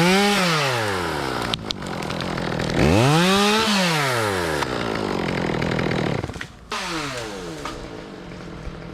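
Two-stroke chainsaw revving: the engine pitch climbs steeply and falls back about every three seconds, three times, running steadily in between.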